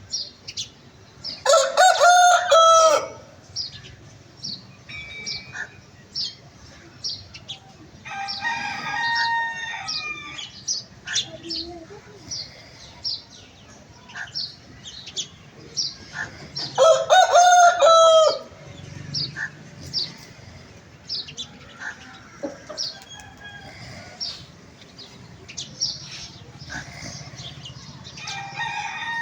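Rooster crowing twice, each a loud crow of about a second and a half, the crows some fifteen seconds apart. Softer crowing comes in between and near the end, and short high chirps run throughout.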